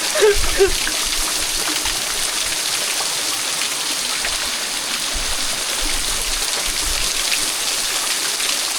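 Waterfall pouring into its pool, a steady, dense rushing hiss of falling water.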